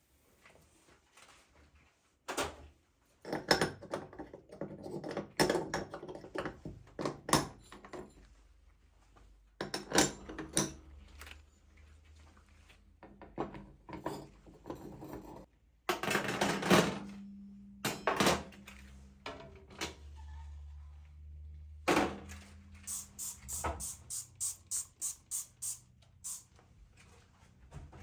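Kitchen work: a string of knocks, clicks and clatter from handling dishes, doors and cupboards. A low steady hum runs through the middle, and near the end comes a quick run of even clicks, about three a second.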